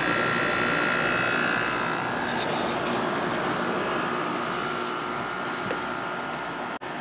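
A small 6050 BTU window air conditioner running in cooling mode, its compressor and fan on low giving a steady hum and rush with a thin high whine that fades about two seconds in. It is running normally.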